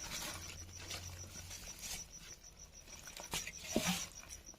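Soft, irregular squishing and patting of hands kneading flour dough for rumali roti, with a louder rustle about four seconds in. A cricket chirps steadily and rapidly throughout.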